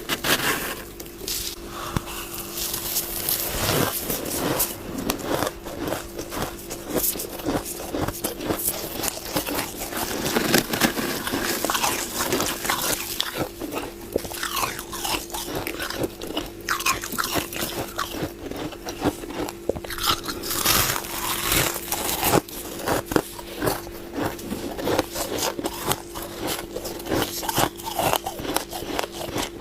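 Close-miked biting and chewing of crunchy freezer frost, a dense, irregular stream of crisp crackling crunches.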